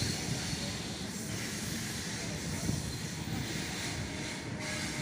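Local train running at steady speed: a continuous low rumble with hiss over it.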